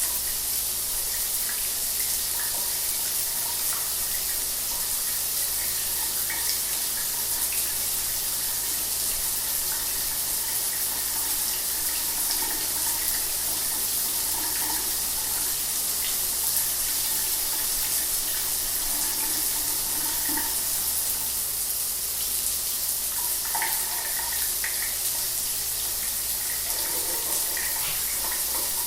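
Shower water running steadily: a constant hiss of spray, with small splashes and gurgles scattered through it.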